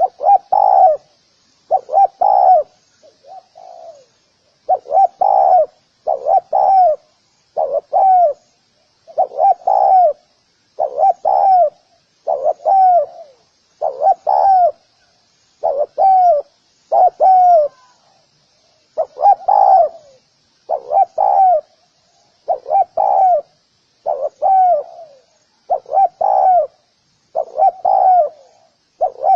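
Spotted dove cooing: a long run of short, low coos, mostly in pairs, about one pair every second and a half, with a brief pause a little past halfway.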